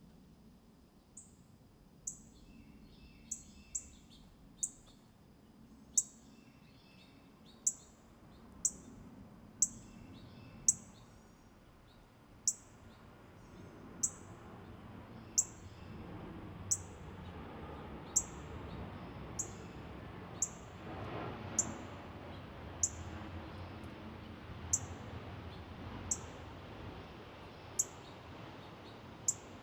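A small songbird repeating a short, very high, thin call note that drops slightly in pitch, about two dozen times at roughly one- to two-second intervals. Softer, lower twittering sounds in the first ten seconds.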